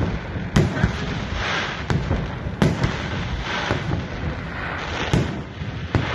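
A run of sharp bangs, about one a second and uneven in spacing, with a crackling haze between them.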